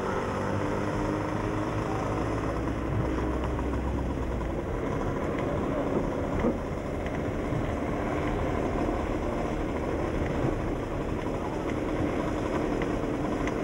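Velorex three-wheelers driving in convoy: the steady drone of their Jawa two-stroke motorcycle engines holding a constant speed, with road rumble underneath.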